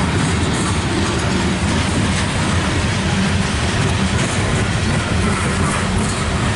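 Loaded coal train's cars rolling past, a steady noise of steel wheels on the rails.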